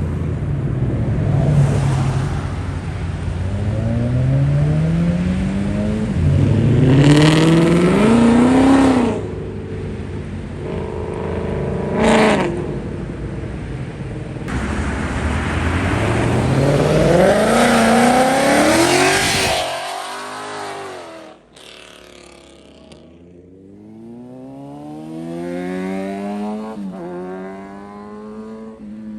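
Modified muscle cars accelerating hard one after another, engine pitch climbing and dropping back as they shift up through the gears. A sharp crack about twelve seconds in, and a quieter car pulling away hard near the end.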